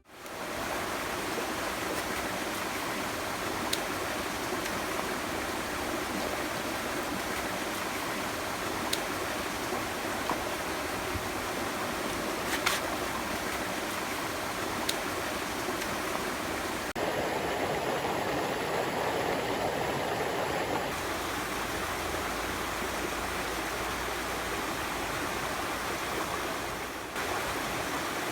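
Clear mountain stream babbling steadily, with a few faint clicks; the water grows a little louder for a few seconds past the middle.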